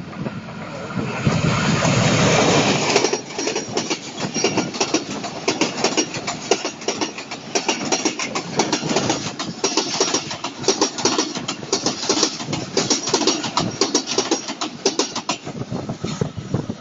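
Passenger train passing close by at speed. The diesel locomotive's engine goes by in the first three seconds, then a long run of coaches with rapid clickety-clack of wheels over rail joints. The sound thins out near the end as the last coach pulls away.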